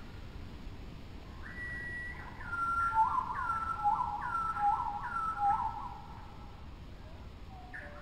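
A bird whistling a string of slurred notes, high falling notes alternating with lower ones about twice a second, for a few seconds, over a faint steady hiss.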